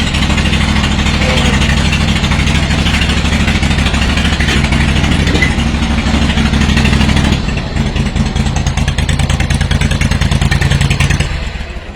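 Kohler Command 25 V-twin engine of a Steiner zero-turn mower running steadily. About seven seconds in its sound changes and wavers, then it dips briefly near the end.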